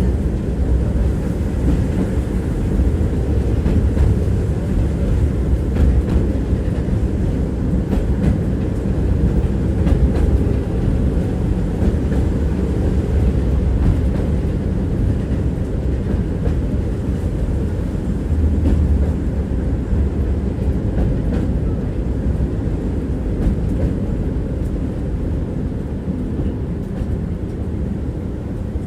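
Electric tram running along the tracks, heard from inside the passenger car: a steady low rumble of wheels on rail with occasional knocks of the wheels over the track. It eases off slightly near the end.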